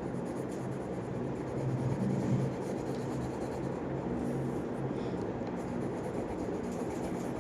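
Pencil strokes on paper, steady rubbing while shading a drawing, over a low steady hum.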